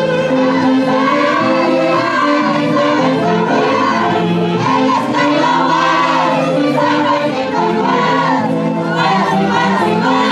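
Live music from a saxophone-and-brass dance orchestra: a melody in repeated arching phrases over sustained bass notes.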